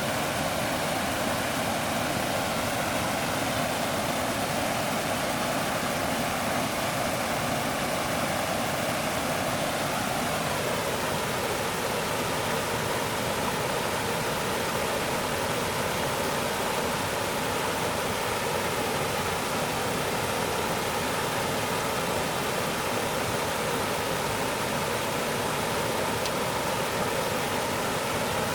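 Steady rushing water, an even hiss with no breaks; its tone shifts slightly about ten seconds in.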